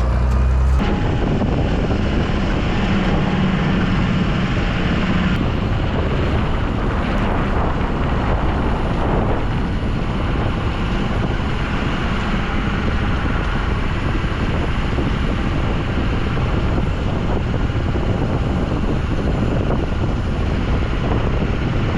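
Ford F550 dump truck driving, with steady engine, tyre and wind noise and no change in pace; the truck is carrying about 4,000 pounds of sand.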